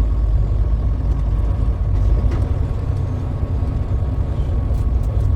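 Truck engine and road noise: a steady low rumble.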